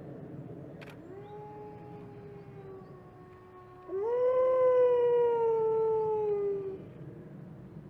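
Wolves howling: a long, quieter howl from about a second in, then a louder howl near four seconds that rises and slowly falls before ending near seven seconds, with a lower howl overlapping it at first.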